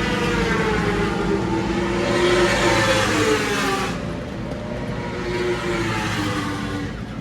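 Racing motorcycle engines running on track, their pitch climbing and falling. A hiss swells twice, about two and five seconds in.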